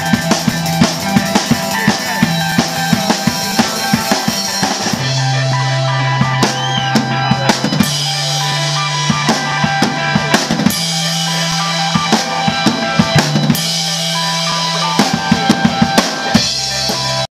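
Live band playing an instrumental passage: a drum kit with fast, frequent bass drum and snare hits over held low bass notes that shift pitch every few seconds, with no singing.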